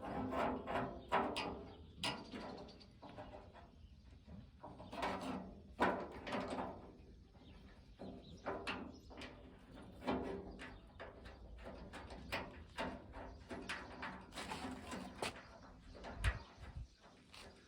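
Tailgate latch hardware being handled and fitted into a tailgate: a string of irregular metallic clicks, clunks and rattles.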